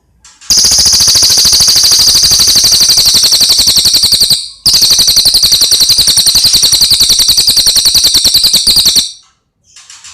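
Cililin bird singing a loud, high, very fast trill. It comes in two unbroken bouts of about four seconds each, with a brief pause in the middle.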